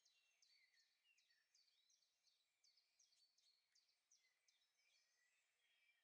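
Very faint birdsong: a rapid run of short, high chirps and quick downward-sweeping notes, several a second.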